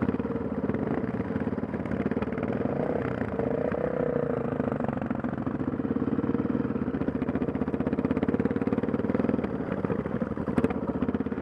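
Dirt bike engine running steadily under way, heard from the rider's own bike, with a short knock near the end.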